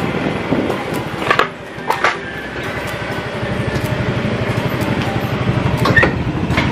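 Yamaha motorcycle engine running at low speed, settling about three seconds in into an even, pulsing idle, with a few short sharp sounds in the first two seconds.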